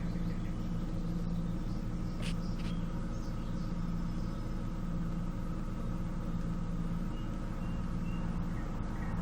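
Chevrolet Cruze 1.6-litre (109 hp) petrol four-cylinder engine running steadily at an even speed, about five minutes after starting.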